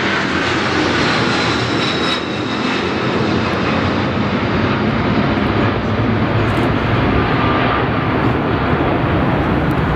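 Jet airliner passing at close range, its engines giving a loud, steady roar, with faint whining tones falling in pitch in the first couple of seconds.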